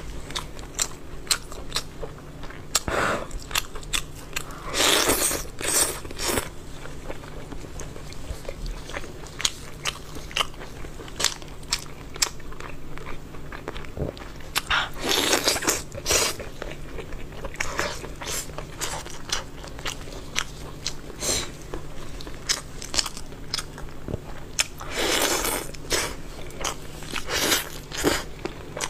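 Close-miked eating of chicken: crunchy bites and chewing with many small crackling clicks. A handful of louder crunches stand out, spread through the stretch.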